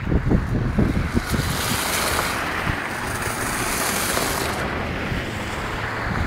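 Blizzard wind buffeting the microphone in low rumbling gusts. A rushing hiss swells for about three seconds in the middle, then settles.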